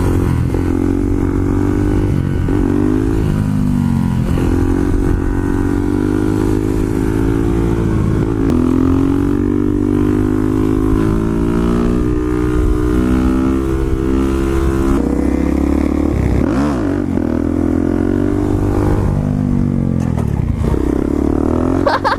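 Small motorcycle engine running on the move, its pitch climbing and then dropping several times as it accelerates and shifts through the gears.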